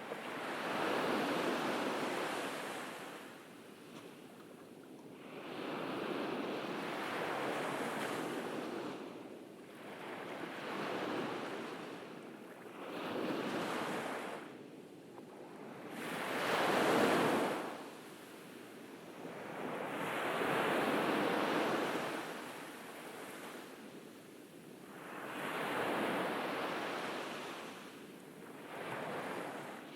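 Gentle ocean waves breaking and washing up on a beach, each swell rising and falling away every few seconds, one somewhat louder about halfway through.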